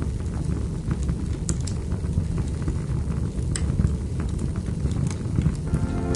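Wood fire crackling, with a steady low rumble and sharp pops scattered through. Soft instrumental music comes in near the end.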